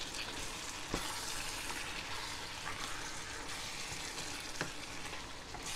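Chicken and bell-pepper sauce sizzling steadily in a hot pan just after the stove is switched off, still hissing from the pan's heat, as a utensil stirs through it. A single sharp click of the utensil on the pan about a second in.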